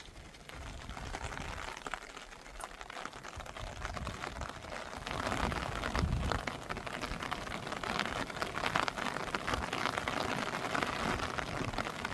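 Rain falling, with many separate drops hitting a surface, growing louder about five seconds in.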